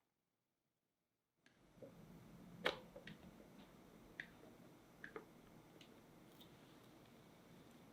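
Dead silence for about a second and a half, then faint kitchen handling: a scatter of light clicks and taps of utensils and containers, the loudest about two and a half seconds in.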